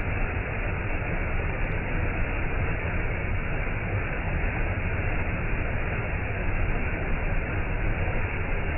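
Waterfall: water falling and crashing in a steady, even rush.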